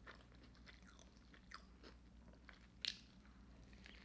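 Faint close-miked chewing and wet mouth clicks of someone eating a Big Mac, with one louder bite or crunch about three seconds in.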